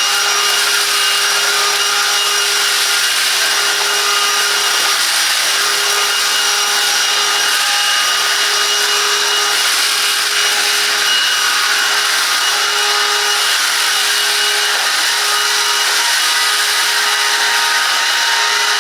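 Silvercrest 18 V cordless 2-in-1 vacuum cleaner running in turbo mode while being worked over carpet: a steady rush of suction air with a constant high motor whine.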